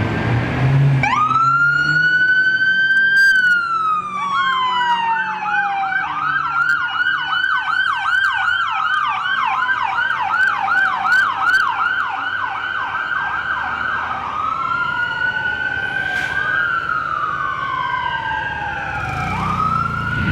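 Emergency sirens of fire apparatus responding. A siren winds up about a second in into a wail, and a second siren joins in a rapid yelp, about three sweeps a second, for about ten seconds. Slow rising and falling wails follow near the end.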